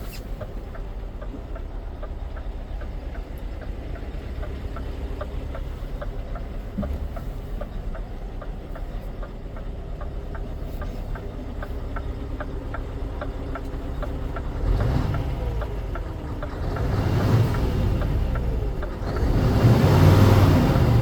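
Scania R520's V8 diesel idling steadily with a regular light ticking, then revved three times, the pitch rising and falling with each rev and the last rev the loudest.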